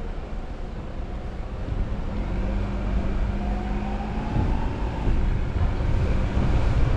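Car driving on a road: low engine and road rumble, with the engine note rising around the middle and the sound growing louder a little past halfway.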